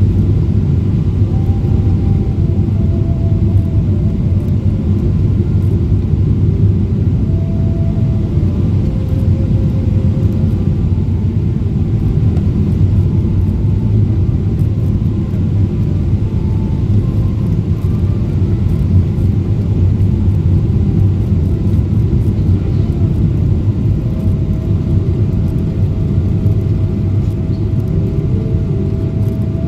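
Steady cabin rumble inside a Boeing 777-300ER from its GE90 engines and airflow, with faint engine tones shifting slightly in pitch.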